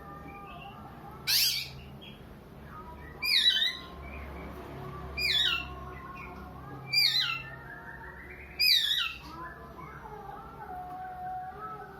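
Oriental magpie-robin (kacer) calling: a sharp burst about a second in, then four falling calls about two seconds apart, a sobbing cry that sounds like a child crying.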